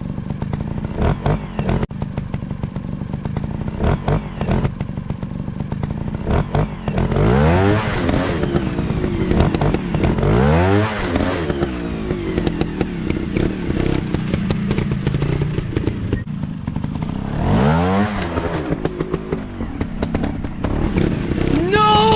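Dirt bike engines running, revving up and falling back several times: about seven, ten and eighteen seconds in, with another rise near the end. Short clattering knocks run under the engines.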